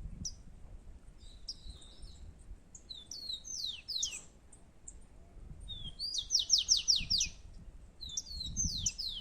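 Rufous-collared sparrows (tico-tico) singing in competition: repeated phrases of high, sharply down-slurred whistles, with a quick trill of about seven falling notes about six seconds in.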